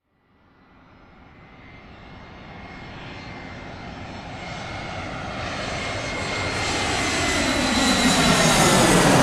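Airplane approaching: its engine sound fades in from silence and grows steadily louder, a broad rush with a high steady whine, building to a peak near the end.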